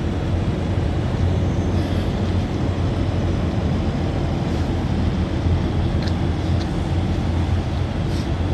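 Steady low engine rumble of vehicles, even in level throughout, with a couple of faint ticks about six and eight seconds in.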